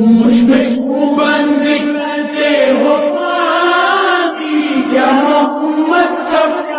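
Music: a voice sings long, wavering notes with no clear words over a steady held drone.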